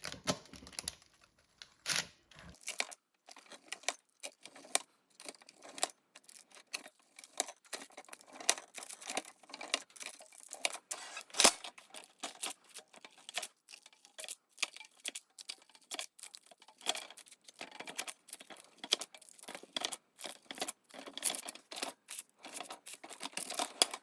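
A blade scoring par-baked sourdough discard cracker dough on a parchment-lined baking sheet: a long, irregular run of short scraping cuts and taps, with parchment crinkling, and one sharper knock about halfway through.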